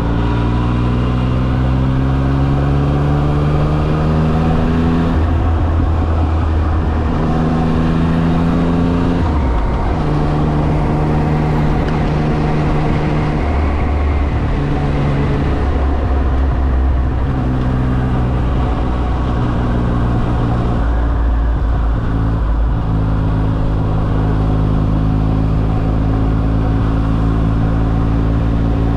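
Yamaha XSR900's inline-three engine running under way. It rises in pitch over the first few seconds, then settles and shifts between a series of steady engine speeds.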